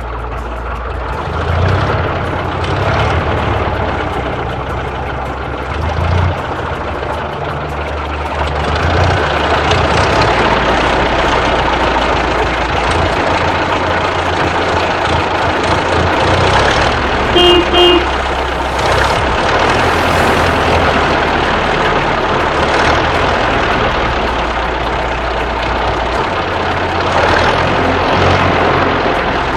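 A heavy vehicle's engine running steadily, with two short beeps about two-thirds of the way through.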